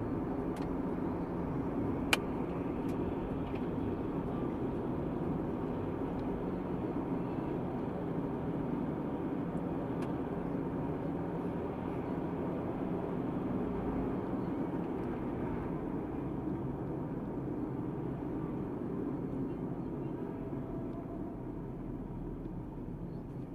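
Car driving along: steady engine and road noise, with one sharp click about two seconds in.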